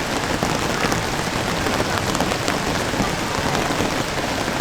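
Steady rain falling on a surface: a dense, even hiss of many tiny drop impacts.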